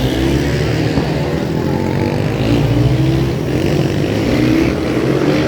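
Supermoto race motorcycles running on the circuit, several engines revving up and down in pitch as the bikes accelerate and shift.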